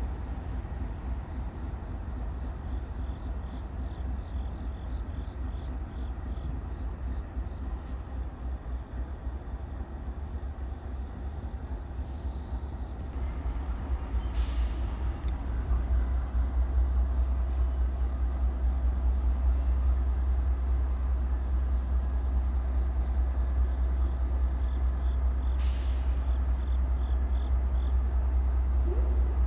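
Train running along the tracks, a continuous low rumble that grows louder about halfway through and holds, with two short hisses.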